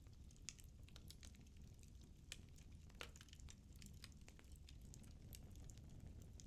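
Firewood burning in a fireplace, crackling faintly with many small irregular pops over a low rumble of the flames.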